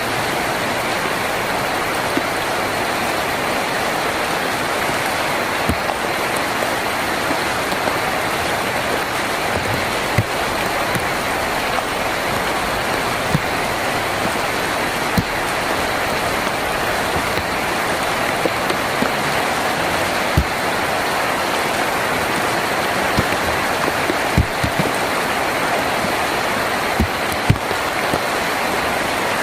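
Heavy rain falling steadily on a tin roof, a dense even hiss, with louder single drops knocking every few seconds.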